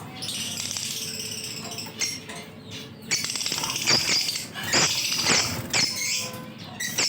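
A group of lutino lovebirds chattering with high, rapid, squeaky calls, growing louder and busier about three seconds in.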